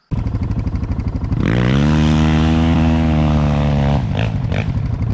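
Dirt bike engine under hard throttle: it runs, climbs in pitch about a second and a half in, holds at high revs, then eases off near four seconds with a couple of short crackles.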